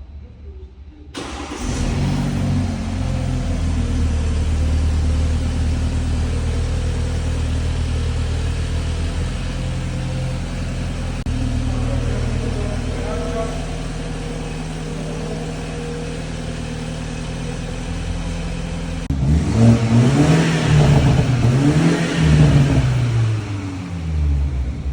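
2018 BMW 330i's turbocharged 2.0-litre four-cylinder engine cold-starting: it catches suddenly about a second in and settles into a high cold idle that steps down slightly. Near the end it is revved several times, the pitch rising and falling with each blip.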